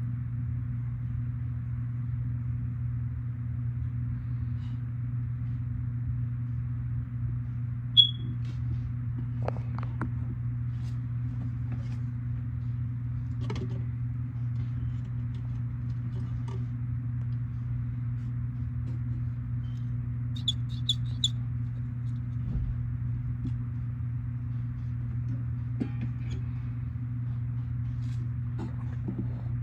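Steady low hum with a few faint clicks, a sharp click about eight seconds in, and three quick high chirps a little past the middle.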